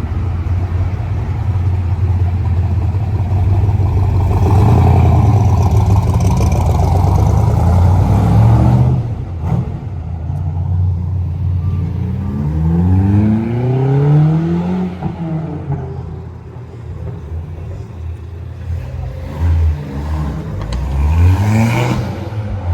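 Car engines running and accelerating. A loud, steady engine note rises and cuts off about nine seconds in. Later, rising engine pitch marks a car accelerating, once about twelve seconds in and again near the end.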